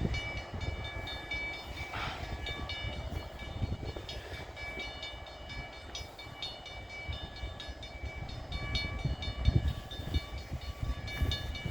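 CN freight train stopped at a railroad crossing, a low rumble underneath, while the crossing bell dings in a steady, even rhythm.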